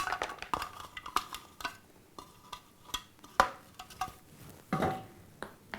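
A spoon clinking and scraping against a bowl as salad ingredients are added and stirred, in irregular light taps, with a few louder knocks in the middle.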